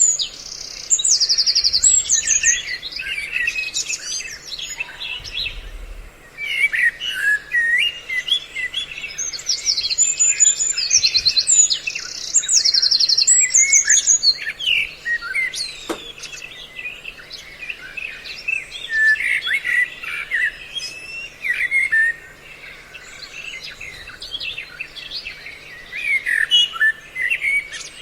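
Several songbirds calling over one another: varied short whistled phrases with quick rising and falling notes, broken by fast, high, rattling trills. This is a mixed birdsong lure recording of the kind played to draw wild birds in for trapping.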